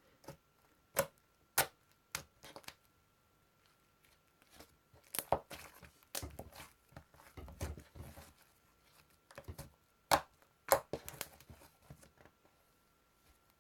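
Close-up handling noises: scattered sharp clicks and taps, with a busier stretch of crackly rustling in the middle, over a faint steady high whine.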